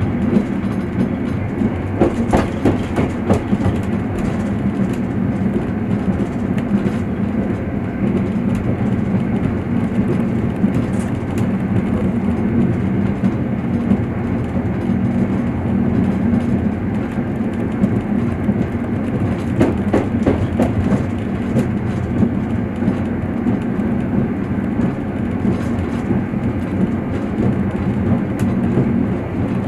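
Train carriage running along the rails, heard from on board: a steady low rumble, with a quick series of wheel clicks over rail joints about two seconds in and again about twenty seconds in.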